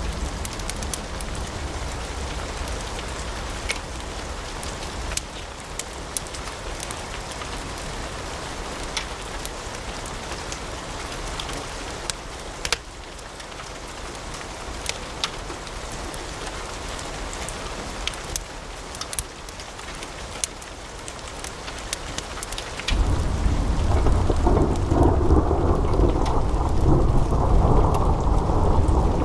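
Wood fire in a fireplace crackling, with many sharp pops over a steady hiss. About 23 seconds in the sound changes abruptly to a louder, deeper rumble with fewer high crackles.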